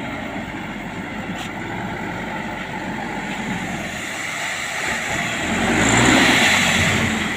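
A motor vehicle engine running steadily, swelling louder about six seconds in and then easing off.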